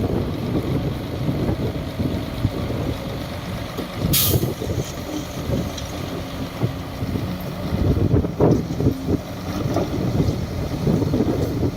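Shantui DH17C2 bulldozer's diesel engine running as the machine works, a steady low rumble, with one short hiss about four seconds in.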